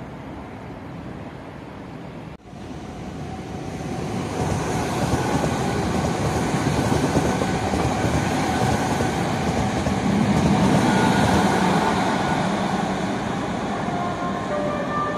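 Electric commuter train running past below, its rumble and wheel clatter building from a few seconds in and staying loud. Near the end a horn starts sounding a few stepped notes.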